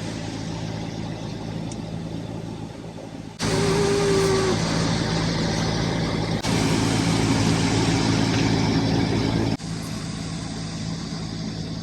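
SUV engine running with a steady low hum under a broad rushing noise. The sound jumps abruptly louder about three seconds in and drops back near the end.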